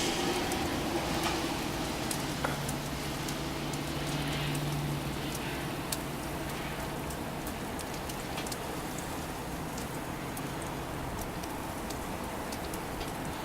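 Wind-driven snow pattering and ticking against surfaces and the microphone over a steady rush of gusty wind. A faint low steady hum runs through the middle and fades out about eleven seconds in.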